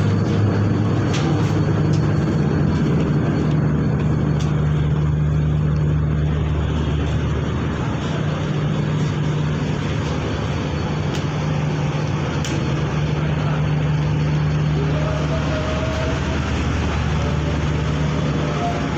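Ship's diesel engines droning steadily with a low hum over a wash of noise, as heard aboard a sea ferry under way.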